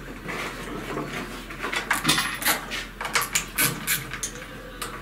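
Irregular clicks, knocks and scraping of plastic and metal parts being handled and pulled apart as the air filter assembly is taken off a Brada BD 850 cultivator, to get at the carburetor. The cluster of knocks is busiest in the middle.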